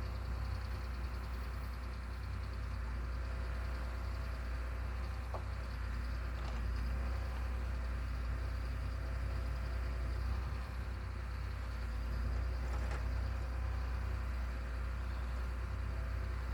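Engine of a machine running steadily with a deep, even rumble and a constant hum, with a few faint knocks.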